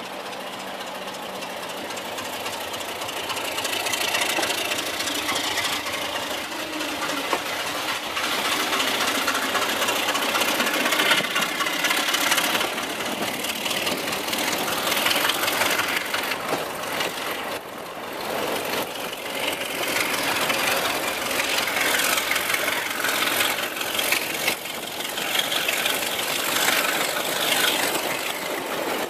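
Class 33 diesel-hauled train running and gathering speed, heard from an open carriage window: steady wheel-on-rail and wind noise that grows louder over the first few seconds. In the second half another train passes close alongside on the next track.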